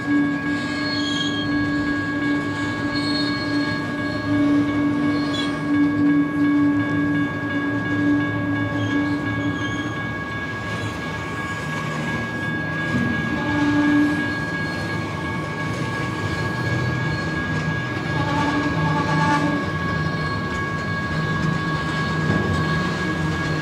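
Double-stack intermodal well cars rolling past on the rails, with a steady high-pitched wheel squeal over the rumble of the wheels.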